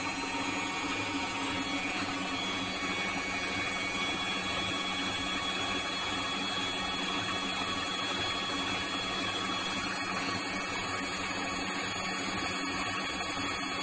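Front-loading washing machine running, a steady motor hum and whir with no change in pace.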